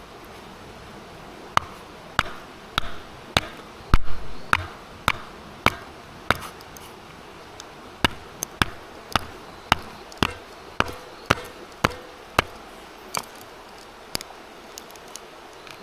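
Repeated sharp knocks, roughly one to two a second, with a heavier thud about four seconds in, like something being struck over and over with a tool.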